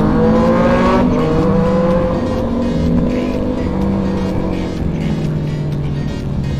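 Motorcycle engine running under way, its pitch climbing for about the first two seconds and then slowly easing off, with background music.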